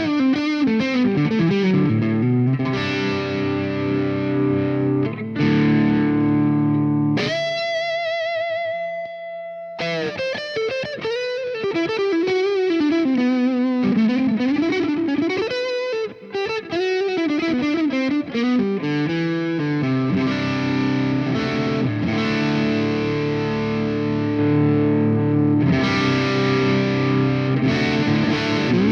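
Electric guitar played through a Joyo R-20 King of Kings dual overdrive pedal, a Bluesbreaker-style circuit, giving an overdriven tone. Strummed chords, then a long held note with vibrato, a lead line with string bends, and chords again near the end.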